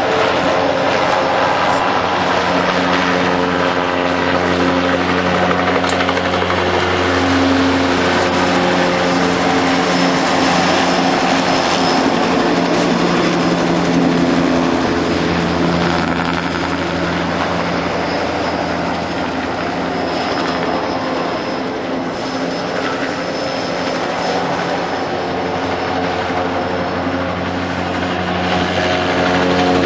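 Helicopter flying overhead: a steady drone with a few humming tones that slowly drift in pitch.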